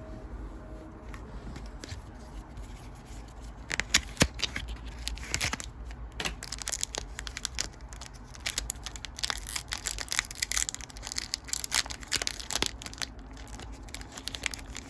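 Foil wrapper of a Pokémon booster pack being torn open with a sharp rip about four seconds in, then crinkling as the wrapper is handled and pulled away from the cards.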